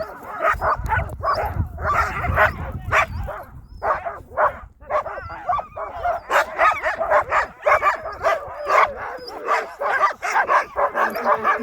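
A team of sled dogs barking and yipping rapidly and continuously, many dogs at once, typical of sled dogs held at a stop and eager to run.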